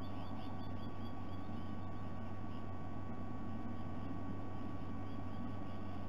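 Steady low electrical hum and hiss on the nest camera's audio. Over it, a bird gives a rapid series of short high chirps, about five a second, for the first two and a half seconds, then again faintly near the end.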